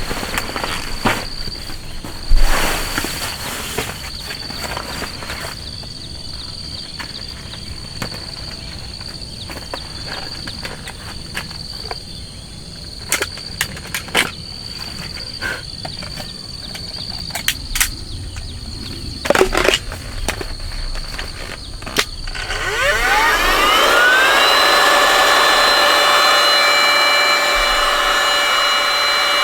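Scattered clicks and knocks of things being handled, then about 22 seconds in a small electric motor starts, its whine rising for a second or so before it runs steadily and louder.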